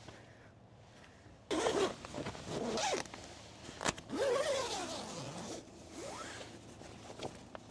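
A zipper being pulled in several quick strokes, one long pull and a few shorter ones, with a sharp click in between.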